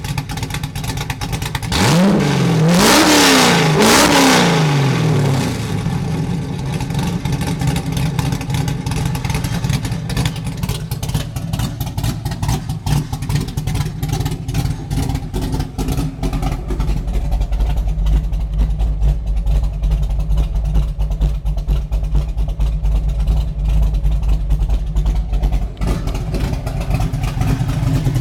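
1995 Mustang GT's 5.0 V8, freshly fitted with new heads, cam and intake, on its first start-up: three quick blips of the throttle, then a choppy, lumpy idle with a deep low rumble.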